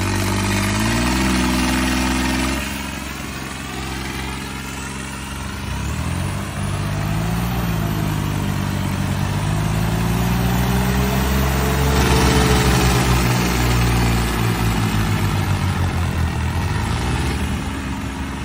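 John Deere tractor's diesel engine running, its speed rising and falling several times: it drops about two and a half seconds in, climbs to its highest around the middle, then settles to a steady lower speed near the end.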